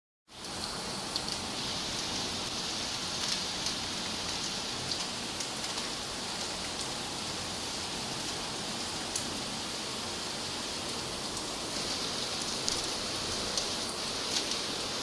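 Heavy rain falling steadily, a constant hiss with scattered sharp ticks of drops striking nearby surfaces.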